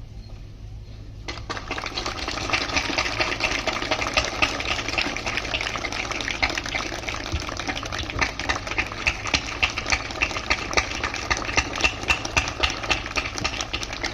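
Crowd applause: many hands clapping in a dense, fast patter that starts suddenly about a second in and keeps going.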